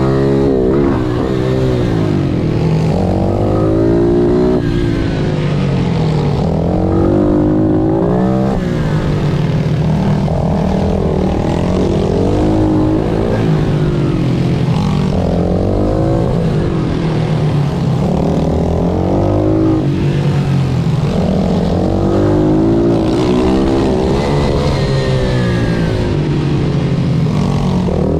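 Single-cylinder pit bike engine racing hard, the revs repeatedly climbing and dropping back every couple of seconds through gear changes and corners.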